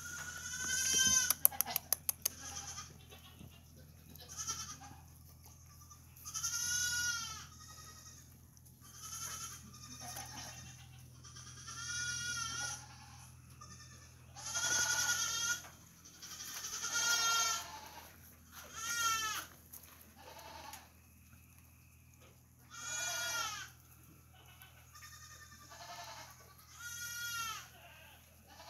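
Young goats (doelings) bleating over and over, high calls every second or two. A quick rattle of clicks comes about a second in.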